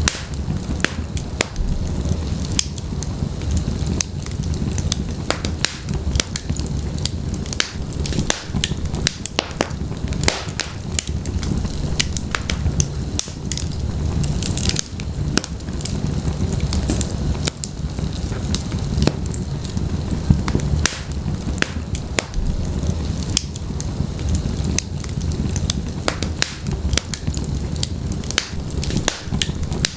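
Wood fire of burning logs in a fireplace crackling and popping: frequent sharp irregular snaps over a steady low rumble of the flames.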